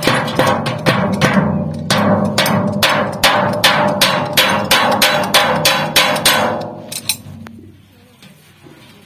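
Hammer striking sheet metal about three times a second, each blow ringing briefly, as the seams of a pot made from old refrigerator metal are hammered closed. The blows stop about seven seconds in.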